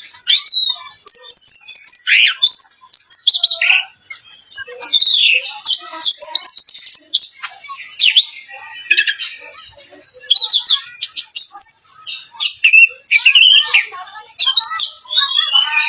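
Orange-headed thrush singing a fast, varied song of whistled phrases, slurred glides and rapid trills, broken by short pauses.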